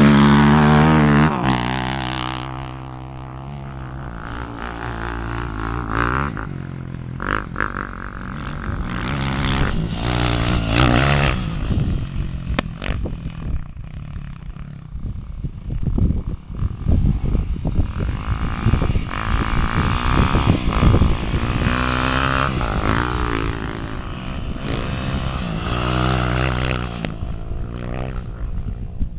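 Off-road racing engines revving hard, their pitch rising and falling with the throttle, loudest at the start. Through the middle, quieter engine sound is broken by many sharp knocks and clatters.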